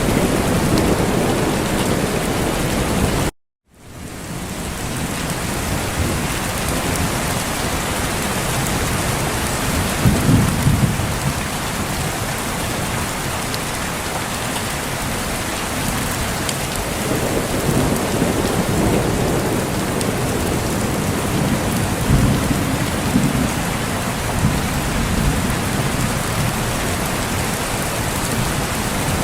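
Steady heavy rain with thunder rumbling low several times. About three seconds in the sound cuts out completely for a moment, then fades back in.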